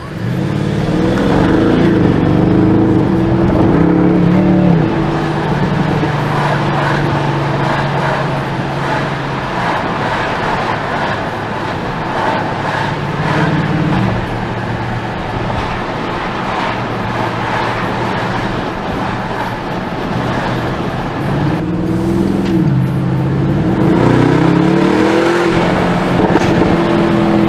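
Bentley Continental GT V8 S's 4.0-litre twin-turbo V8 with sports exhaust accelerating through the gears. The engine note rises and drops back at each upshift over the first few seconds, holds a steady pitch for a long stretch, then climbs again with further upshifts near the end.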